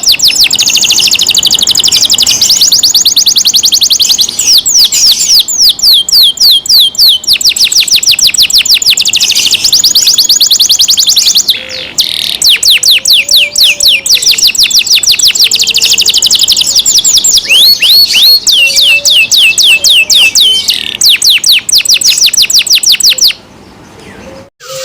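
Domestic canary singing a loud, high song of fast trilled rolls, each made of many quick repeated notes. It pauses briefly about halfway through and stops shortly before the end.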